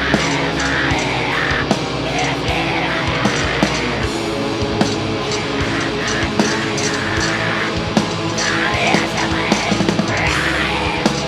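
Live heavy metal band playing loud and without a break: distorted guitars and bass over a drum kit with frequent hits.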